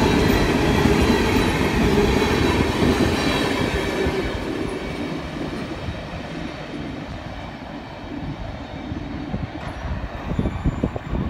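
Freight train cars rolling past with wheel clatter and rumble, fading away over the first several seconds as the train moves off. A few sharp knocks come near the end.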